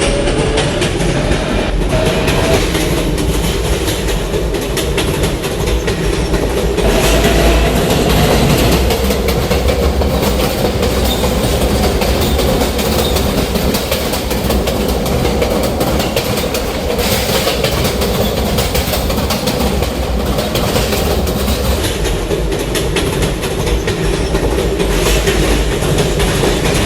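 New York City Subway Z train running between stations, heard from inside the car: a steady rolling rumble with quick clicking of the wheels over rail joints. A motor whine climbs a little in pitch over the first couple of seconds as the train picks up speed.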